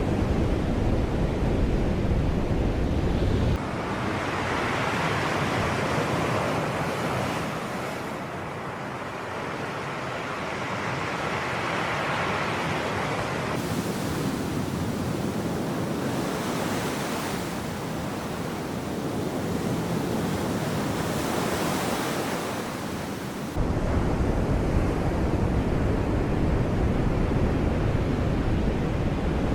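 Sea waves washing in and drawing back, the surf swelling and easing every few seconds. A heavy low wind rumble on the microphone cuts off abruptly a few seconds in and comes back abruptly past the two-thirds mark.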